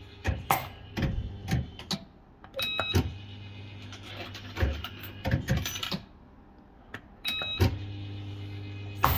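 Bell-Fruit FireCracker fruit machine in play: reel motors hum steadily as the reels spin and stop with clunks, with sharp button-press clicks. Each new spin starts with a short beep, about 3 s and 7 s in.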